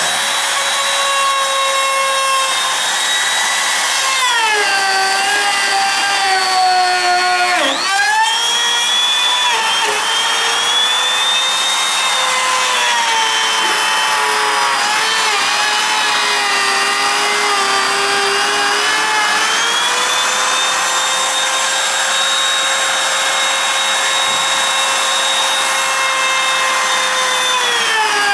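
High-speed power tool spinning a cutting bit through sheet material, a continuous motor whine. Its pitch sags as the bit bogs under load about four to eight seconds in, wavers, climbs back around twenty seconds and drops again at the end.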